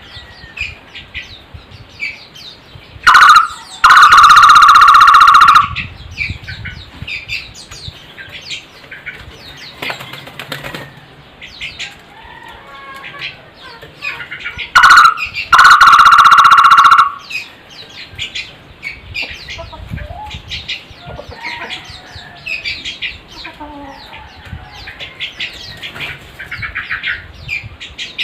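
A barbet (takur) calling loudly twice, each time a short note followed by a held call of about two seconds, the second call some twelve seconds after the first. Many small birds chirp and twitter throughout.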